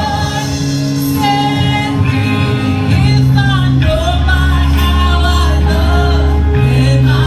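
A live praise and worship band playing, with a lead voice singing over the band and strong, held bass notes underneath.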